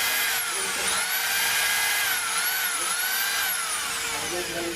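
DeWalt electric drill motor whining at high speed. Its speed dips and picks up again twice as the trigger is eased and squeezed, then it is released and the whine falls away as the motor spins down near the end.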